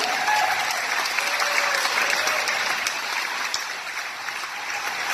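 Audience applauding, a steady round of many hands clapping that tapers slightly toward the end.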